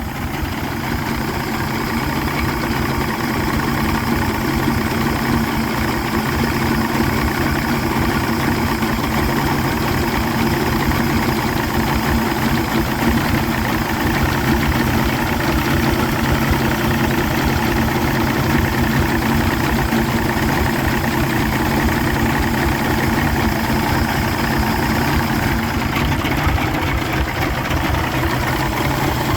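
1985 Yamaha 150 hp V6 two-stroke outboard idling steadily, with an even low pulsing from the engine. It has been idling for about twenty minutes with no alarm and no overheating.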